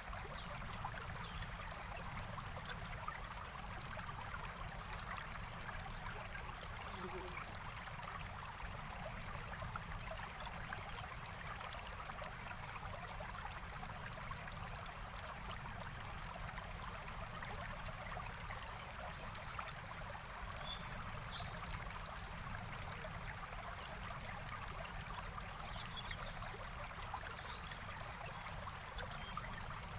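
Forest stream flowing steadily, with a few faint short bird chirps in the second half.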